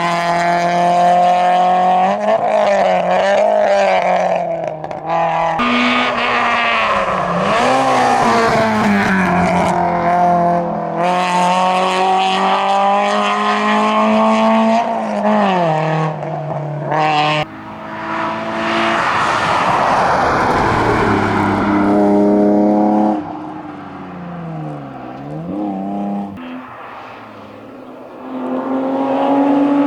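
A Citroën Saxo VTS four-cylinder hillclimb car at full throttle, its engine note climbing through each gear and dropping at the shifts. About 18 seconds in it gives way to a BMW 325i (E36) straight-six that passes hard, lifts off for a downshift with a dip in revs, then picks up again.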